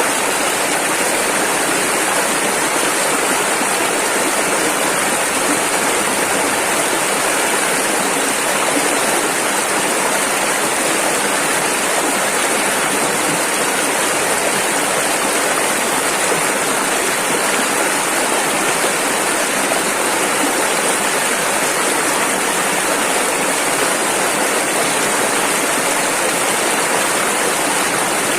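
Rushing river water: a steady, unbroken rush.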